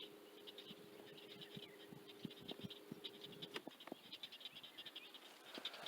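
Faint frogs calling around the lake in rapid trains of short high chirps, with a low steady hum that stops about three and a half seconds in and a few light clicks.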